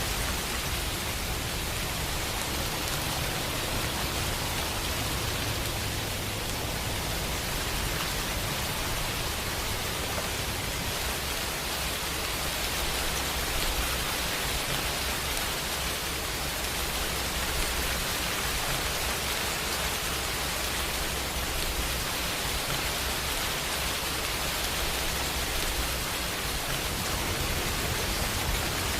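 Steady, dense rain hiss with a low rumble underneath that swells and fades.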